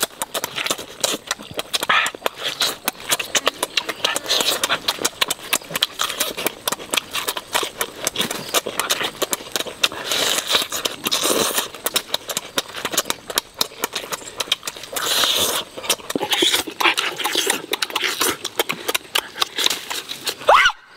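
Close-up chewing and lip-smacking of people eating roast chicken with their hands: a dense, irregular run of wet smacks and clicks.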